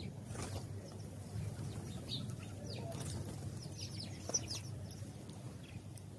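House sparrows chirping: scattered short, high chirps, busiest in the middle of the stretch, over a steady low hum.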